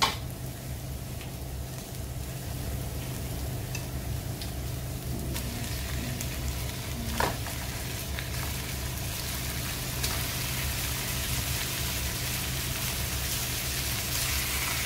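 Onion and garlic sizzling in oil in a nonstick wok as raw chicken pieces are dropped in by hand; the sizzle grows louder over the last few seconds. Two sharp knocks, one at the very start and one about seven seconds in, over a steady low hum.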